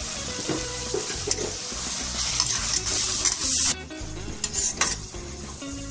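Chopped onions and tomatoes sizzling in hot oil and butter in a kadhai while a flat metal spatula stirs and scrapes them. The sizzle cuts off suddenly a little past halfway, and a few sharp spatula scrapes follow.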